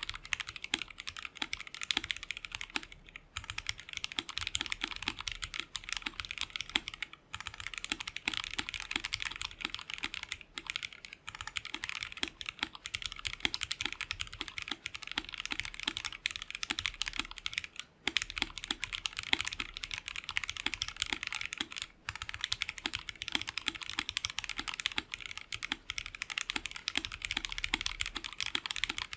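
Fast, continuous typing on a Lapis60 60% mechanical keyboard with Jwick Black linear switches: a dense stream of key clacks with a few brief pauses between bursts.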